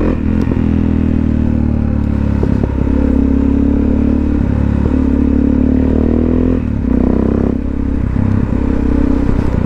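Motorcycle engine heard from the rider's helmet, pulling under steady throttle. Its pitch climbs slowly over several seconds, dips at a gear change about six and a half seconds in, then runs on.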